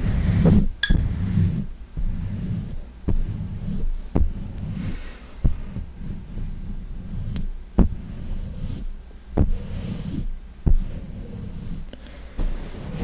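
A large makeup powder brush rubbing and sweeping close to the microphone, making a rough low rumble, with about ten sharp light taps and clicks spread unevenly through it.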